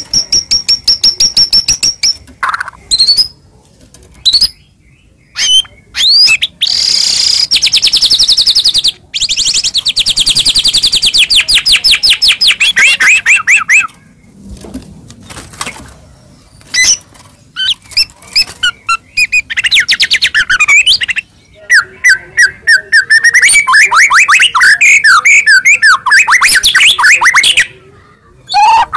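White-rumped shama (murai batu) singing loudly in full song: fast runs of repeated high notes and rattling trills, some notes sliding up or down, in phrases broken by short pauses.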